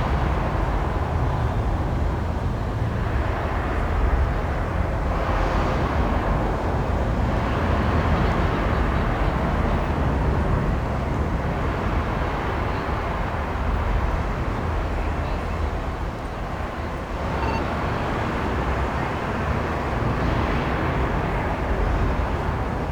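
Indoor simulated rainstorm: a steady rush of artificial rain falling on the ground under a deep, continuous thunder rumble. The rush swells twice, a few seconds in and again past the middle.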